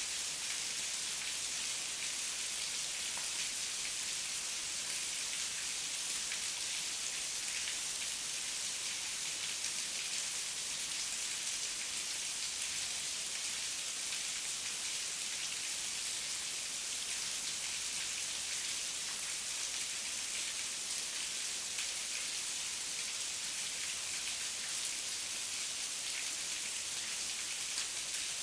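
Heavy rain falling steadily, an even hiss without pause and without thunder.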